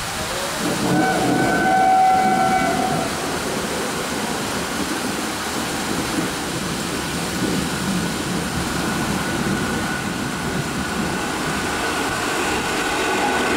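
WAP-4 electric locomotive hauling an express train, sounding its horn for about two seconds near the start, then the steady rumble of the train running in at speed.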